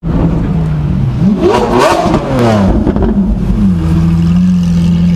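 Lamborghini Aventador's V12 engine revved once, the pitch climbing and falling back about a second in, then running steadily at low revs as the car rolls by close up.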